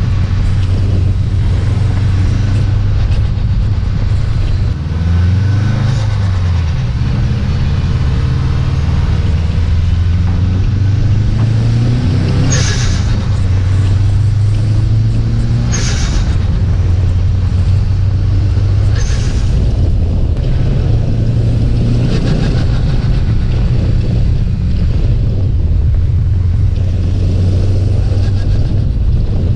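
Subaru WRX STi's turbocharged flat-four engine pulling through the gears with revs rising and falling, and three sharp turbo flutter bursts when the throttle is lifted, about twelve, sixteen and nineteen seconds in.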